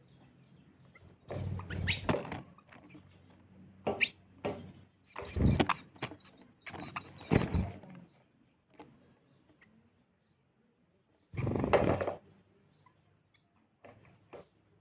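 Sparrows chirping and squabbling in short, scattered bursts with quiet gaps between, the loudest burst coming about eleven seconds in.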